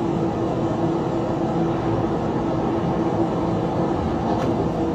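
Steady rumbling background noise with a constant hum, the sound track of a phone video clip being played back.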